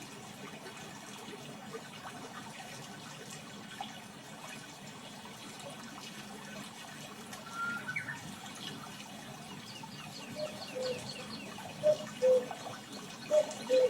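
Steady rush of running water, with birds calling from about ten seconds in: a series of short, loud low notes and a fast high trill.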